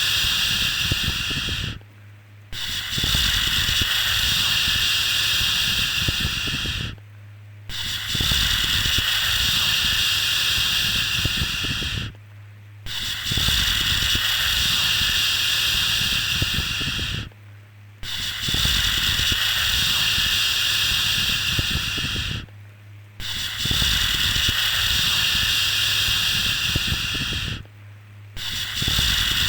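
A soothing 'shhh' shushing sound for a baby, repeated over and over. Each long shush lasts about four and a half seconds, and there is a brief pause of about half a second between them.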